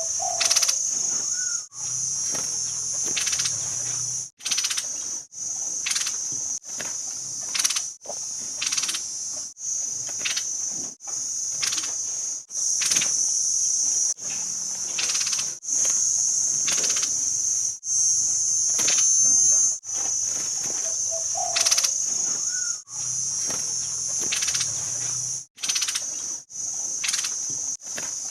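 Steady, high-pitched insect drone, typical of cicadas, broken by brief dropouts every second or two, with short chirp-like sounds over it.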